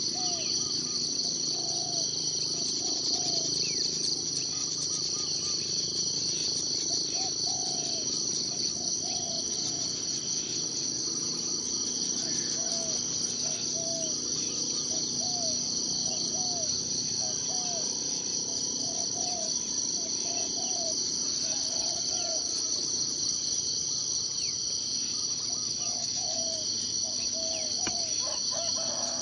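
A steady, high-pitched chorus of forest insects such as crickets or cicadas droning without a break. Over it come a bird's short, low calls, repeated in twos and threes every second or two.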